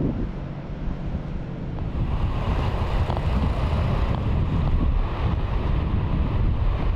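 Wind buffeting the microphone: a rumbling rush, heaviest in the low end, that grows louder and fuller about two seconds in.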